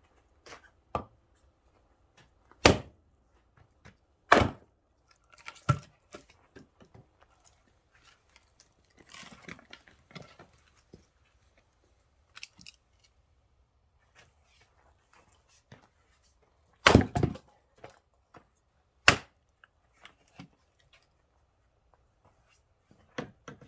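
Axe blows splitting oak firewood logs: four loud, sharp strikes spaced irregularly, two in the first few seconds and two more about two-thirds of the way through. Lighter wooden knocks and a brief rustle of the split pieces come in between.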